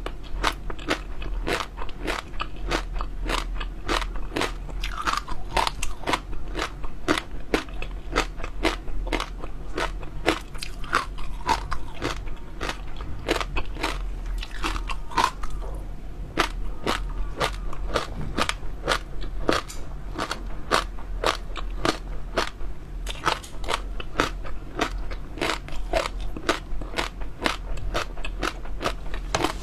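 Close-miked chewing of crunchy jelly pearls: continuous crunching and crackling bites, about two crisp clicks a second.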